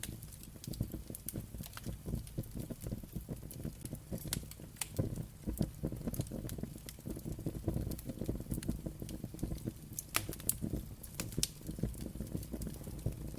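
Wood fire crackling, with a steady low rumble of flames and irregular sharp pops and snaps scattered throughout.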